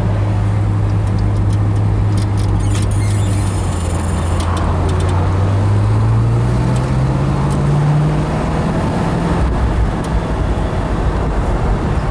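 1965 Pontiac GTO's tri-power V8 running under load in fourth gear, heard from the moving car, with road noise. Its pitch climbs steadily from about four seconds in as it speeds up, then drops back near eight seconds as it eases off.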